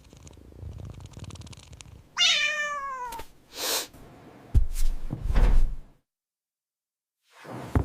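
A cat purring, then a single meow that falls in pitch about two seconds in, followed by a few heavy thuds.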